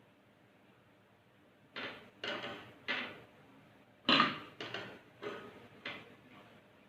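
Metal teaspoon knocking and scraping against a dish as chicks are hand-fed: about seven short clinks and scrapes over four seconds, the loudest a little after the middle.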